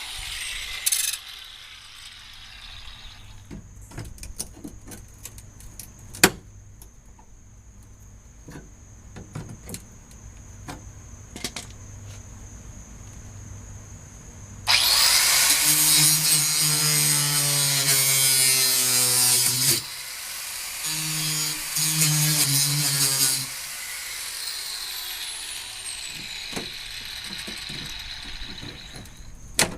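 Electric power tool running in two loud bursts, about five seconds and then two and a half seconds long, its motor note dropping as it slows at the end of the first. Scattered knocks and clicks of handling come before it.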